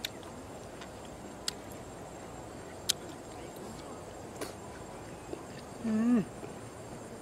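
A person chewing squid salad with sharp wet mouth clicks and smacks about every second and a half, and one short closed-mouth 'mmm' hum, rising then falling, about six seconds in.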